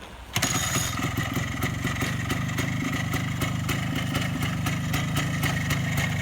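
Minsk 125's single-cylinder two-stroke engine catches suddenly about half a second in and then runs steadily with a fast, even crackle, after work on its sticking throttle slide and leaking carburettor.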